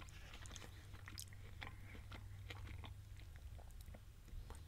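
Faint close-up chewing of a mouthful of beef, lettuce and rice power bowl, with scattered small wet mouth clicks.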